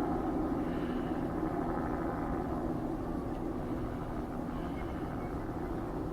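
Steady low mechanical hum, like an engine running, with a held low tone throughout.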